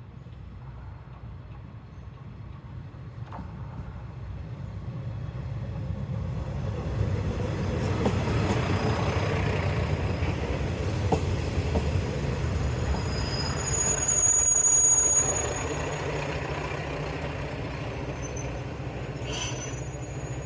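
Tarumi Railway diesel railcar approaching and passing, its rumble and wheel noise building over the first several seconds. It is loudest about three quarters of the way through, when brief high-pitched wheel squeals sound, then it runs on steadily.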